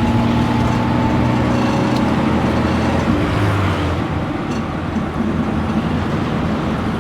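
Tuk-tuk engine running while the tuk-tuk is under way, heard from the passenger seat with road noise. A steady engine hum fades into a more even rush of road noise about halfway through.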